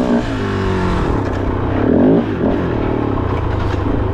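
Kove 450 Rally's single-cylinder engine revving up and down at trail speed. A surge about two seconds in is cut back sharply, and near the end the engine settles into a steadier, evenly pulsing idle.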